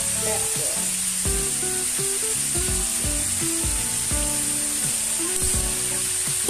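Strips of chicken, hot dog and carrot sizzling steadily as they fry in a hot wok, with background music of short stepped notes and a regular beat playing over it.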